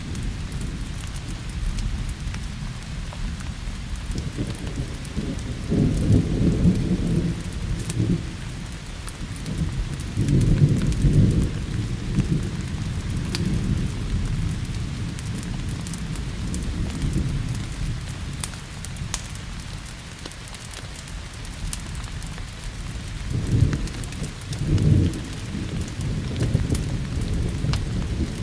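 Steady rain with rolling thunder that swells into low rumbles three times, over sharp crackles from a wood fire in a fireplace.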